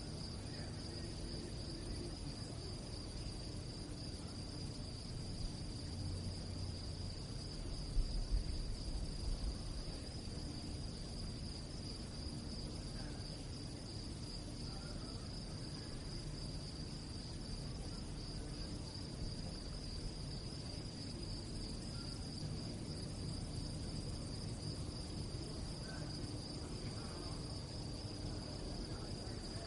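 Crickets chirping in a steady, unbroken high-pitched trill. A few brief low bumps about eight seconds in.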